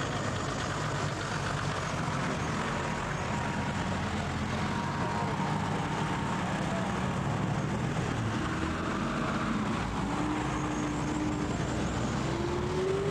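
Steady noise of SUV engines running among a moving group, with a low hum underneath and a faint tone that rises near the end.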